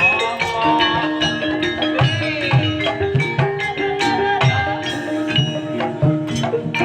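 Javanese ebeg accompaniment music: mallet-struck pitched tones playing a running melody over hand-drum strokes in a steady rhythm.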